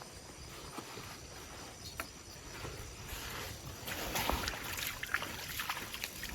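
Water sloshing and splashing with scattered small knocks and rustles, busier from about halfway through.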